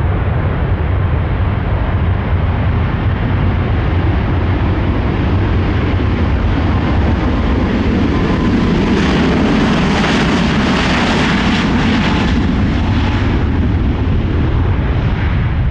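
Airbus A350-1000's Rolls-Royce Trent XWB turbofans at takeoff thrust, a continuous jet roar over a deep rumble. It swells to its loudest and hissiest about nine to thirteen seconds in as the airliner passes, then eases off.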